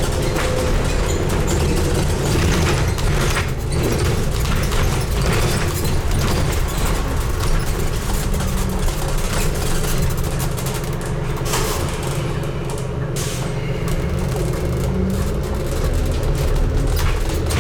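A Scania N250UD double-decker bus on the move, its five-cylinder diesel engine running with a deep, steady rumble. Its pitch shifts a little as the bus drives, over scattered rattles and knocks from the bodywork.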